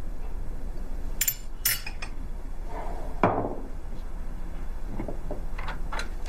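Crockery and glassware clinking as it is handled: a few sharp clinks, a louder knock about three seconds in, and lighter taps near the end.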